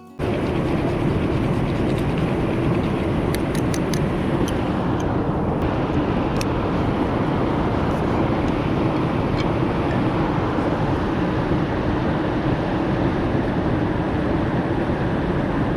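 Steady loud rushing noise that cuts in and out abruptly, with a few sharp clicks a few seconds in.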